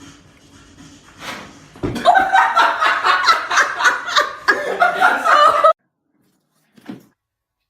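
A person laughing hard in quick, loud bursts, starting about two seconds in and cutting off suddenly near the end.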